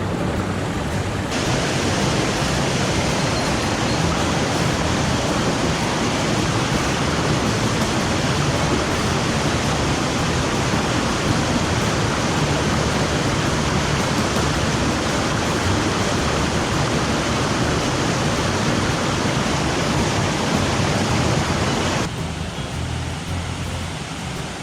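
Mountain stream water rushing over rocks in a loud, steady roar, its character changing abruptly about a second in and again near the end, where it turns duller and a little quieter.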